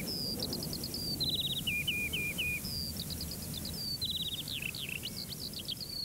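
A songbird singing repeated phrases, each a fast high trill followed by notes stepping down in pitch, over a steady low background noise.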